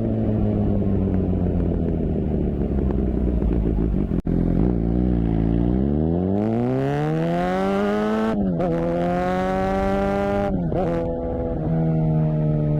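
Suzuki GSX-R750 inline-four engine and exhaust: the revs fall away for about four seconds, then the bike accelerates, pitch climbing steeply with two quick gear changes, and settles to a steady run near the end.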